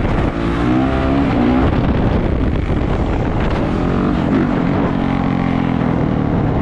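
450cc single-cylinder four-stroke dirt bike running under throttle while being ridden, its engine pitch rising and falling several times as it accelerates and eases off.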